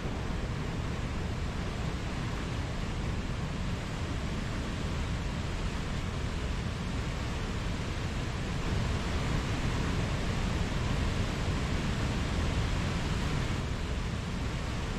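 Mountain stream running with a steady rush of water, a little louder for a few seconds in the second half.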